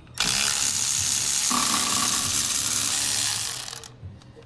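A steady spray hiss lasting about three and a half seconds, starting just after the beginning and fading out near the end, with a faint tone joining it about halfway through.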